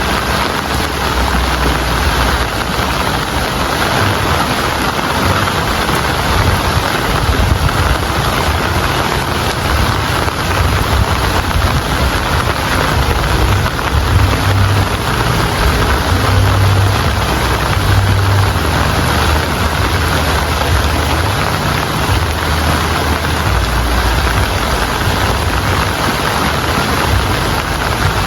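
Steady, loud rain falling, an even hiss, with a low rumble underneath that swells and fades.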